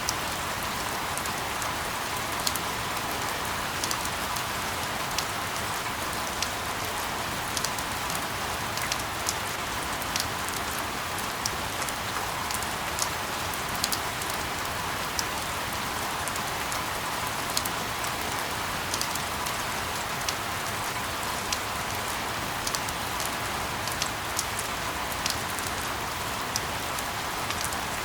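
Steady rain: an even hiss with frequent sharp, irregular ticks of drops striking a surface.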